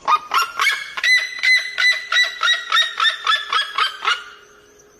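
A bird calling in a rapid, even series of short nasal notes, about five a second, that stops about four seconds in.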